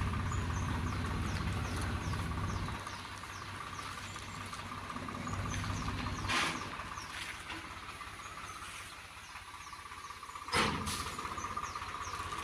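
Tractor engine running low, then dropping away about three seconds in, leaving a steady insect trill and short high bird chirps. Two sharp knocks come about six and ten seconds in.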